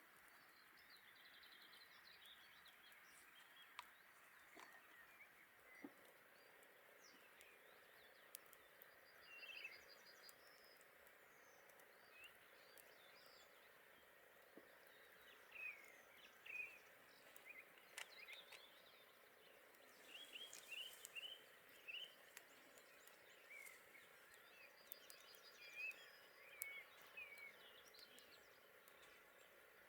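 Faint outdoor birdsong: scattered short chirps and quick trills, busier in the second half, over a soft steady hiss, with a few faint clicks.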